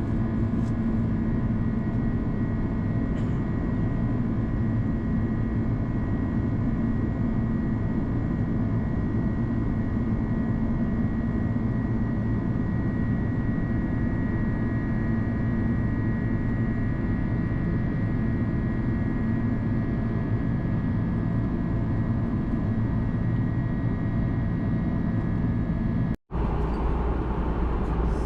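Steady cabin drone of an Airbus A330-200 jet airliner in flight: engine and airflow noise with a constant low hum. It cuts out for an instant near the end and then resumes.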